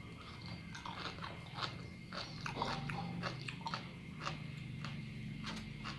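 Close-up chewing of a mouthful of sea grapes (grape seaweed): many small, crisp clicks and squelches as the beads are bitten and chewed.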